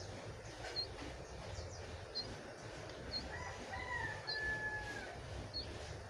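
Young jongkangan bird chirping: short high calls about once a second. About halfway through, a longer steady note of about two seconds sounds.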